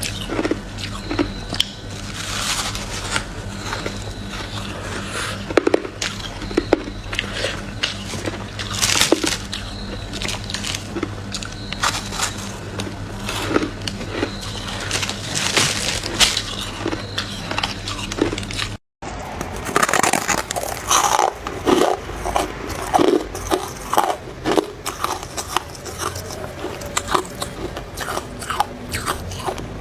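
Biting and chewing soft freezer frost: irregular crisp crunches, one after another. A low steady hum sits under the first two-thirds and is gone after a brief break in the sound.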